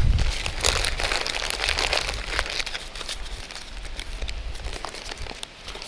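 Trading cards and their packaging being handled: light rustling and crinkling with many small clicks, over a faint low rumble that eases off after the first second.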